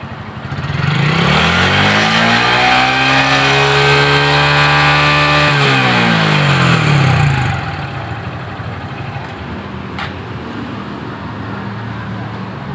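Honda Supra X 125 FI's single-cylinder four-stroke fuel-injected engine revved up from idle, held at high revs for about four seconds, then let drop back to a steady idle. It is running after a stutter (brebet) under throttle, which the mechanic traced to the fuel supply.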